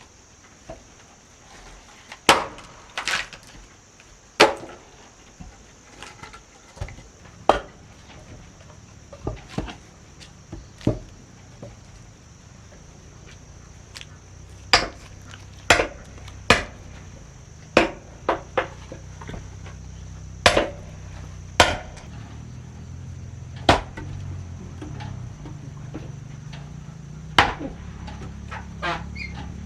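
Repeated sharp blows striking wood, irregularly spaced about one every second or two, as in chopping or hammering timber.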